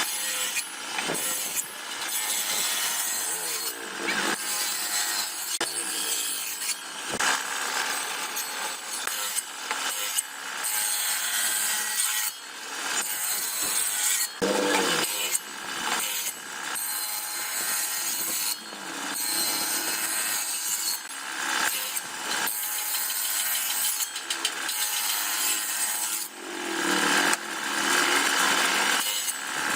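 Wood being worked with a tool, likely sawn: a rough, rasping noise that breaks off briefly every second or two and starts again.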